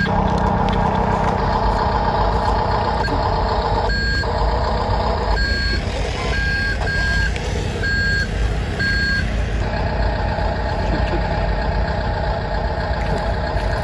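Reversing beeper on an RC construction model, a short high beep sounding about six times over a few seconds at uneven intervals. Underneath runs a steady engine-like drone.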